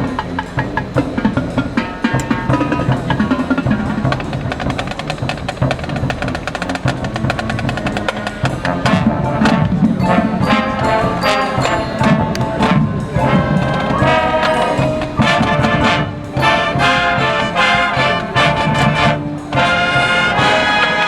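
A high school marching band playing, brass with drums. The brass comes in stronger and fuller with sharp accents about nine seconds in.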